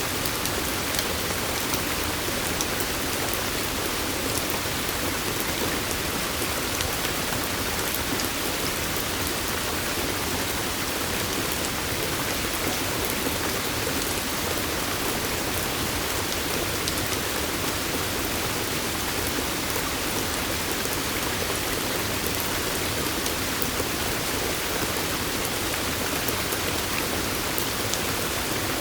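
Steady rain falling, an even hiss with fine ticks of drops that does not let up.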